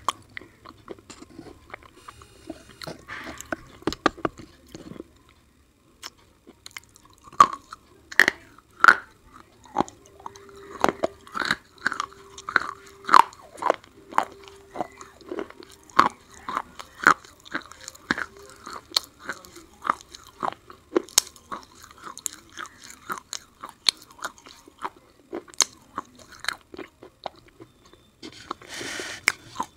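Close-miked crunchy chewing of black slate pencil: after a short quiet spell, sharp crisp crunches come about once or twice a second from about seven seconds in.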